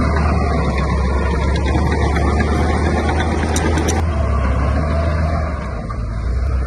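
Heavy construction machinery's diesel engine running steadily with a deep, loud rumble. A few faint clicks come about halfway through.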